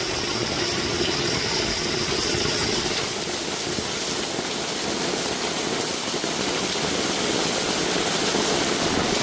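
Torrential rain pouring down in a heavy thunderstorm downpour, a loud, steady rush of water.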